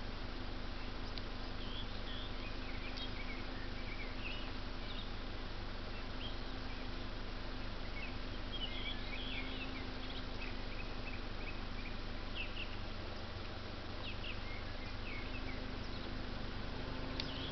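Small birds chirping in scattered short high notes through the woods, over a steady low rumble and faint hum of background noise.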